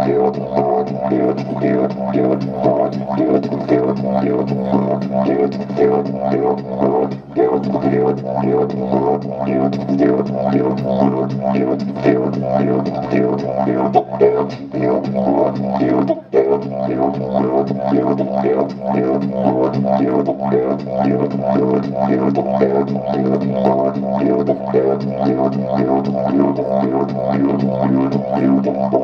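Didgeridoo played live: a continuous low drone with a quick, rhythmic pulsing pattern over it, dipping briefly twice.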